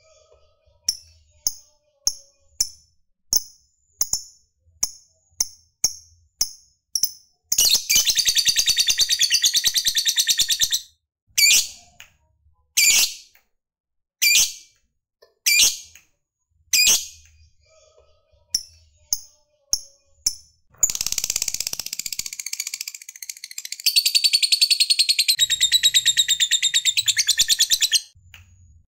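Lovebird calling: a run of sharp high chirps about two a second, then a long fast rattling trill, the 'ngekek' chatter, lasting about three seconds. More single chirps follow, then a second long trill of about seven seconds near the end.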